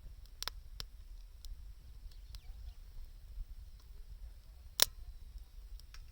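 Wood fire crackling: a few scattered sharp pops over a low rumble, one much louder snap about five seconds in.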